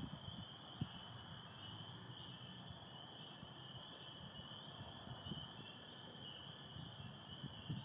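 A chorus of spring peepers, many short high peeps overlapping without a break, over a fainter steady trilling from American toads. Low rumbles and knocks sound underneath, with one sharp knock about a second in.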